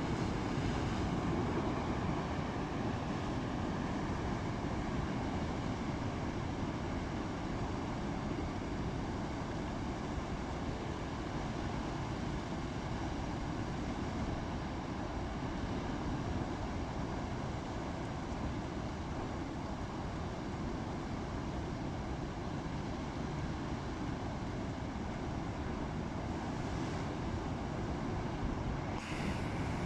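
Steady rushing noise of wind and rough sea, unbroken throughout, with a faint steady hum running under it.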